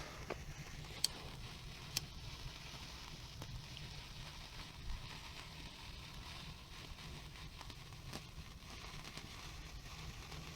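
Faint crackling and fizzing from burning hand-held firework sticks, with a few sharp clicks about one and two seconds in.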